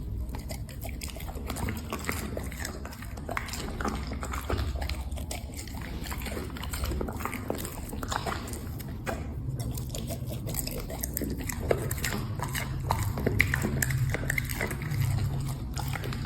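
A dog eating, chewing its food with many irregular wet smacks and clicks.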